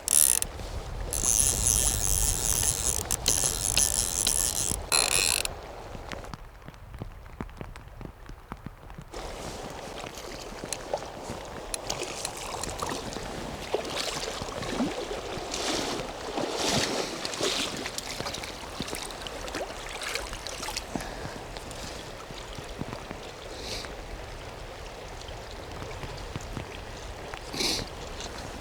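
Fly reel's ratchet clicking while a hooked trout is played, louder for the first few seconds, then scattered clicks over running river water.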